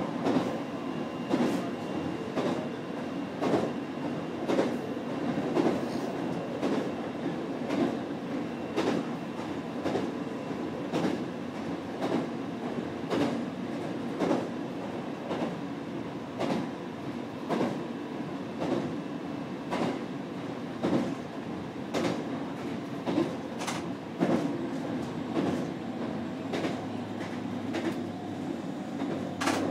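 Electric train running along the line, heard from inside at the front behind the driver's cab: a steady running noise with a sharp click of the wheels over rail joints about once a second, and a faint steady whine.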